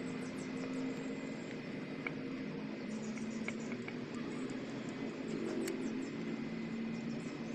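Steady low hum with a handful of faint, sharp clicks and light scratching, like small parts and tools being handled on a workbench.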